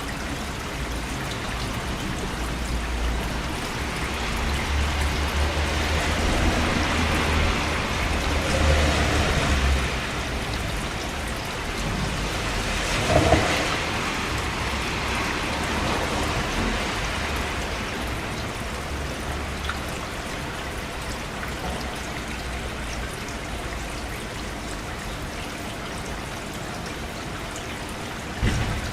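Steady rain falling, with low rolls of thunder swelling and fading through the first half and a sharper peak of thunder about 13 seconds in. A short thump comes near the end.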